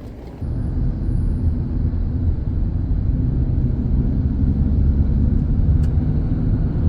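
Loud, steady low engine rumble that starts suddenly about half a second in.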